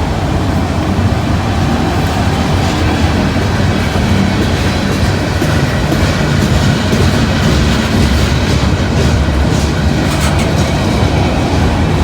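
Mixed freight train's cars rolling past close by, with a steady, unbroken wheel-on-rail noise.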